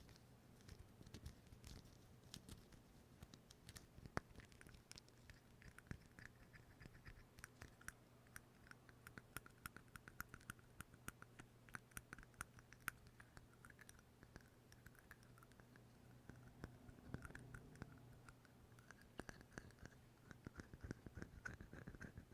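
Faint, irregular scratching and clicking close to the microphone, thickest through the middle, over a low steady hum.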